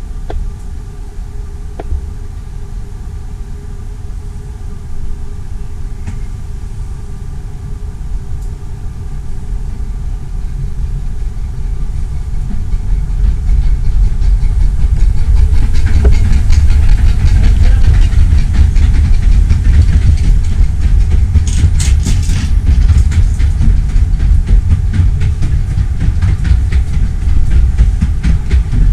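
A 15-inch gauge miniature railway train running on the track: a low rumble with a rapid clatter of wheels on rail. It grows much louder from about halfway through, with a short high hiss a little later.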